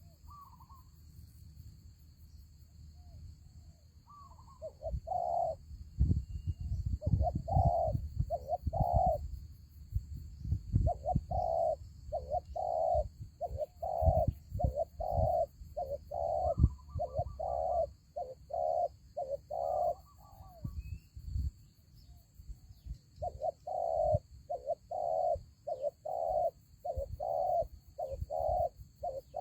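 Spotted doves cooing: runs of low, quickly repeated coo notes, about one and a half a second, with a pause of a couple of seconds in the middle. Low dull thuds sound under the first half of the cooing.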